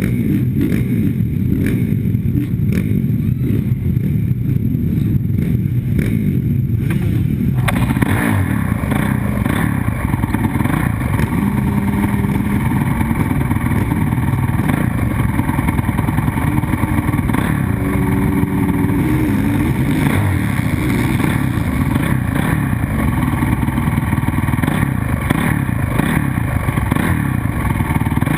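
Motocross dirt bike engines running loud and continuous, with revving. About eight seconds in the sound abruptly turns brighter and harsher.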